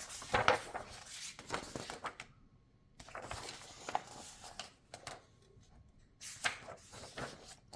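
Coloring book pages being turned and handled: three bouts of paper rustling, a couple of seconds apart.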